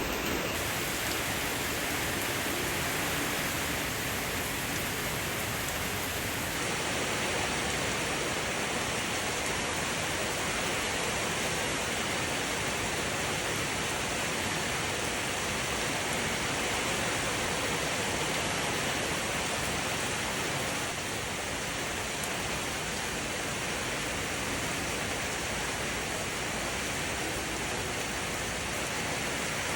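Steady rain falling, an even, unbroken hiss of many drops with no single strikes standing out.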